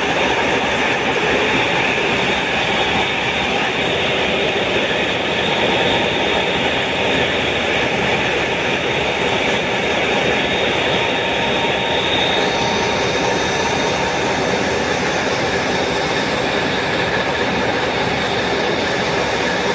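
Caterpillar 3606 inline six-cylinder marine diesel engine running steadily at a constant speed, a loud, dense, unbroken mechanical clatter.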